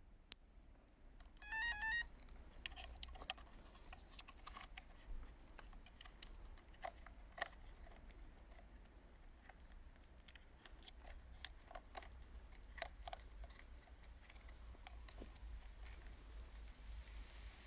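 Faint scattered clicks and knocks, like small hard parts being handled. A short warbling electronic beep sounds about one and a half seconds in.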